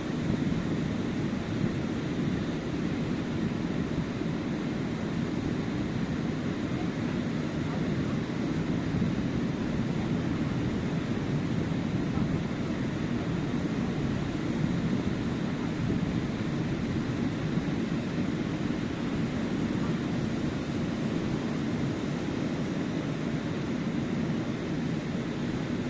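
Ocean surf on a sandy beach: a steady, low wash of breaking waves with no distinct crashes.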